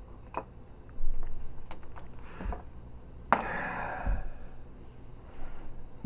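Small parts of a toy robot's hip mechanism being handled while a spring is fitted onto its ratchet: scattered small clicks and taps, with a sharper click about three seconds in followed by a brief scraping rustle.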